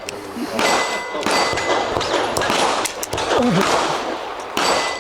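Pistol shots striking steel targets: about eight sharp cracks spread unevenly, each followed by the ringing ding of a steel plate.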